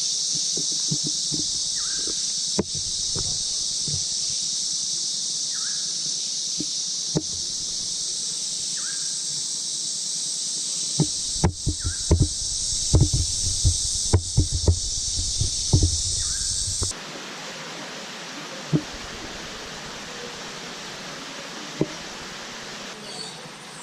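Rainforest insects keeping up a loud, steady high-pitched drone, with a short call repeating about every three and a half seconds. Knocks and thumps come up close from about eleven to sixteen seconds in. The drone cuts off suddenly about seventeen seconds in, leaving a quieter, even hiss.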